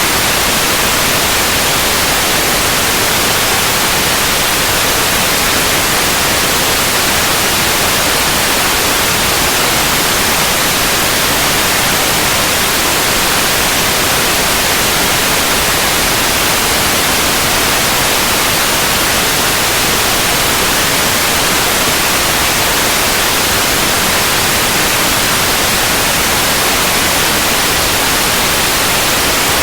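Steady, unchanging white noise: an even hiss across the whole range of pitch, with no rhythm or change.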